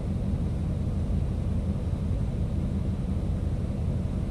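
Steady low rumble of a city bus on the move, heard from inside the cabin: engine and road noise.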